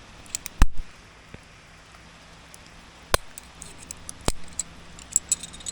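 Metal climbing hardware clinking: a few sharp separate clicks, the loudest about half a second in, then two more spaced a second or so apart and a flurry of lighter clicks near the end.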